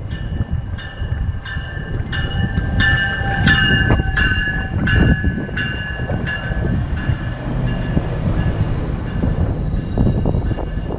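GO Transit bi-level commuter train pulling into the platform, its bell ringing about one and a half strikes a second, loudest a few seconds in and fading out by about seven seconds. Underneath runs the low rumble of the coaches rolling past, with wheel clicks near the end.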